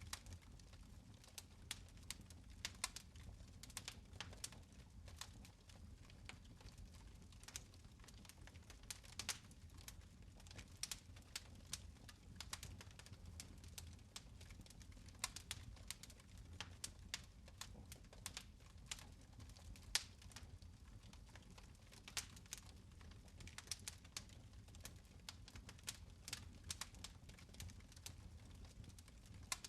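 Fire crackling in a fireplace: irregular small pops and snaps over a faint low steady rumble.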